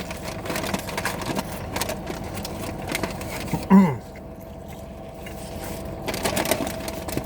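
Fast-food wrappers and bags rustling and crinkling as the food is handled, with a brief vocal sound about four seconds in, over a faint steady hum.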